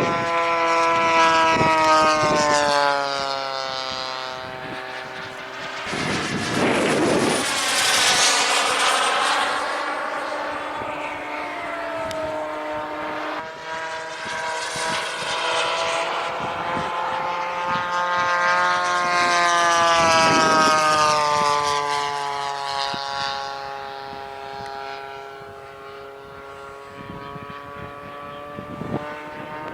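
Radio-controlled model plane's propeller engine flying past several times, its steady drone swelling as it comes close and its pitch dropping as it goes by.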